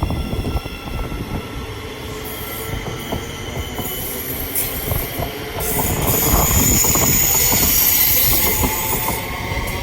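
Passenger train running through the station close by, its wheels squealing on the rails with a high hiss. The sound is loudest from about six to nine seconds in.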